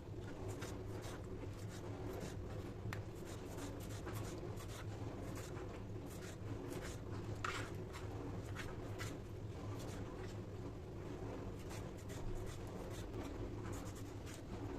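Kitchen food-prep handling: a run of light scratching and scraping strokes with small clicks, over a steady low hum.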